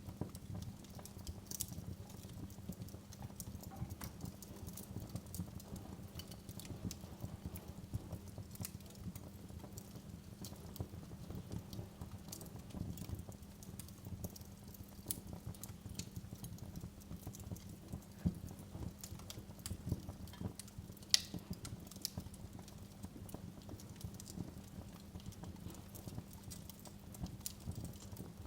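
Wood fire crackling in a fireplace: a low steady rumble of the flames under many small, irregular snaps and pops, with one sharper pop about two-thirds of the way through.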